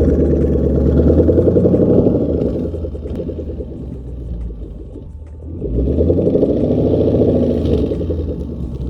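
Ford Mustang GT's Coyote 5.0 V8 engine running with a deep pulsing rumble. It swells louder twice, in the first few seconds and again past the middle, as it is revved or driven.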